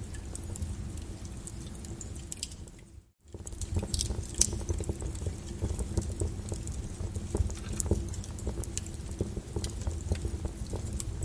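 Wood fire crackling and popping over a steady low rumble, layered with rain pattering. The sound fades out briefly about three seconds in and comes straight back.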